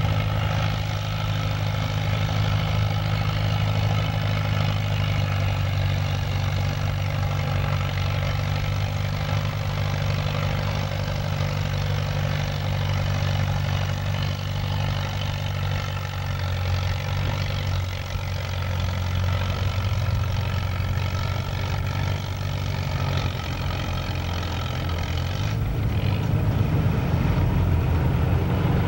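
Antique farm tractor engine running hard under load, pulling a weight sled in a tractor pull, a steady deep drone that shifts and grows louder low down near the end.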